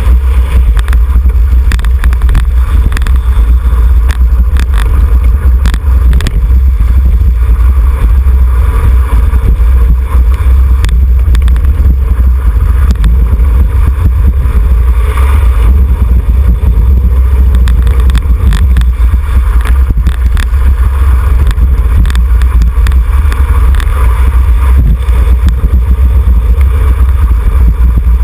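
Loud, steady wind rumble buffeting the microphone of a camera on a bicycle ridden at racing speed, with scattered small clicks through it.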